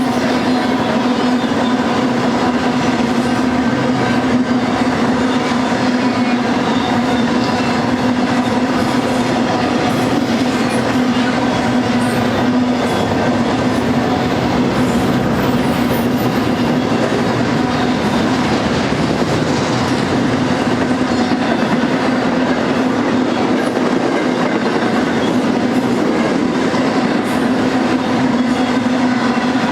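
BNSF freight train rolling past close by: a steady, continuous rumble with wheels clicking over the rails.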